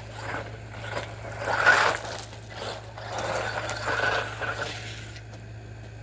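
A radio-controlled model running close by in several passes: noisy rushes that swell and fade, loudest about two seconds in and again for a longer stretch near the middle, over a steady low hum.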